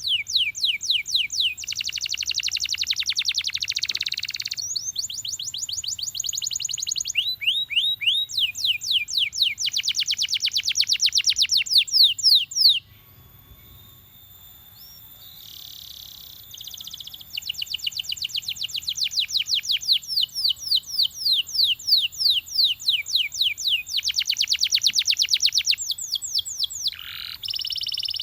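Belgian canary singing: long tours of fast, evenly repeated sweeping notes, switching from one trill to the next, with a pause of about two seconds near the middle.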